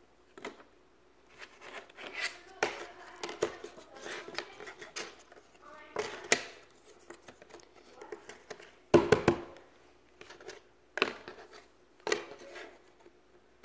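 Jigsaw puzzle pieces being handled and pressed into place: a series of irregular light clicks, taps and short rustles, with a louder cluster of knocks about nine seconds in.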